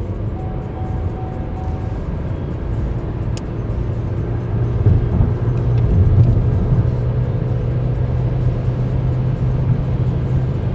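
Opel Astra J's 1.4-litre turbocharged four-cylinder petrol engine running under moderate acceleration, with road noise beneath it. The engine drone grows louder about halfway through.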